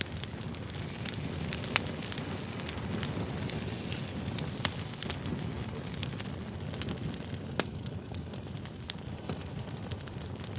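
Firewood burning: a steady low rumble of flames with frequent small crackles and a few sharp pops.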